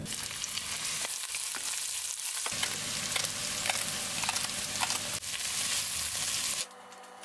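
Sliced onions and green chili sizzling and crackling in olive oil in a frying pan, stirred with a wooden spoon. The sizzle cuts off suddenly near the end.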